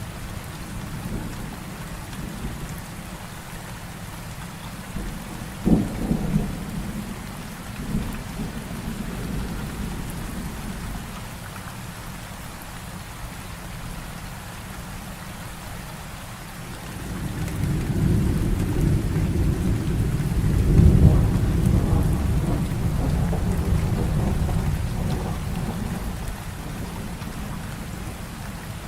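Heavy rain falling steadily in a thunderstorm, with a sharp thunderclap about six seconds in and a long, deep roll of thunder that builds in the second half and slowly fades.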